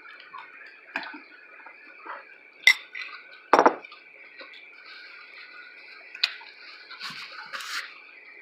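Utensils and dishes clinking and knocking at a table, a handful of separate clinks, the loudest about three and a half seconds in, with a short clattery patch near the end, over a faint steady high hum.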